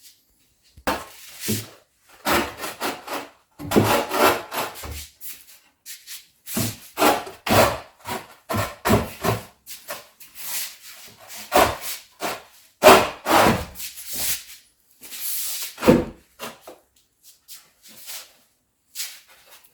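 Irregular scraping strokes against wood, in uneven runs a fraction of a second to about a second long, with short pauses between them.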